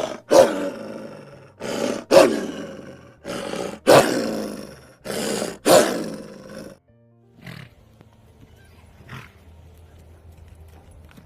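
A big cat roaring: four loud roars about a second and a half apart, each starting sharply and trailing off, then two faint calls.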